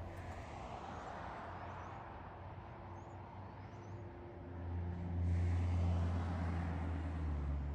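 Motor vehicle running, with a steady low engine and road hum that swells louder about four and a half seconds in.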